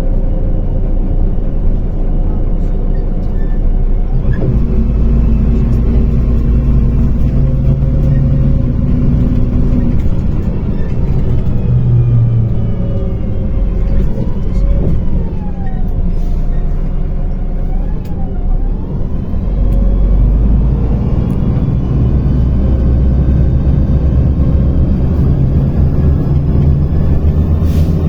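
Interior sound of a MAZ-105 articulated city bus under way: the diesel engine and drivetrain rumble steadily, swelling as the bus accelerates about four seconds in and again near twenty seconds, easing in between, with a faint rising and falling whine from the drivetrain in the middle.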